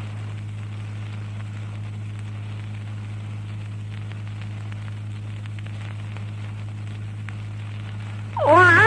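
Steady low electrical hum with faint hiss and light crackle from the recording or sound system, heard in the pause between recited phrases. Near the end, the reciter's voice comes back in with a rising, drawn-out note.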